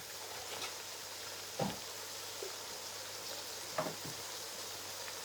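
Red palm oil frying in a pot, a steady sizzle, with three short sharp knocks about two seconds apart.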